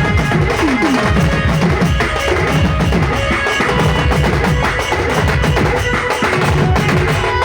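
Sambalpuri dulduli baja band playing a folk tune: dense, fast drumming with a held melody line above it.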